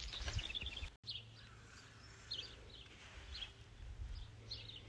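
Faint garden ambience: scattered short, high bird chirps over a low, steady background rumble, with a brief dropout about a second in.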